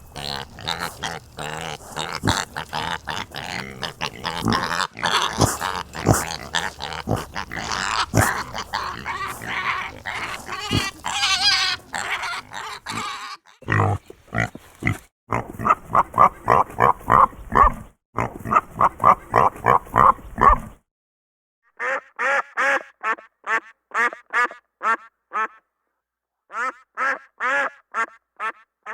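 Pigs grunting and squealing together in a dense, noisy jumble, then ducks quacking in quick runs of short calls, with short pauses between the runs, from about halfway through.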